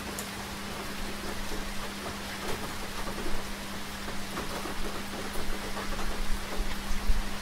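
Steady rain falling, with individual drops hitting close by, over a constant low hum.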